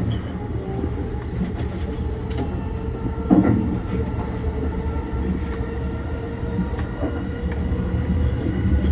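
JR E235-1000 series electric train running on the line, heard from inside the car: a steady low rumble with a few steady tones over it, and one louder clunk about three seconds in.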